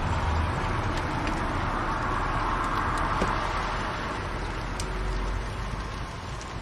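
Fireplace fire burning with a steady hiss and rumble, broken by a few faint crackles.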